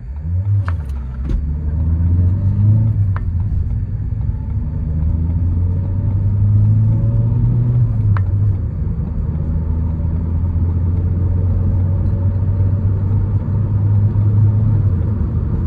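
A Ford Courier's 1.5-litre diesel engine pulls hard from a standstill and revs up through the gears in a full-throttle 0–100 km/h run. The engine note rises in pitch within each gear and drops briefly at the gear changes.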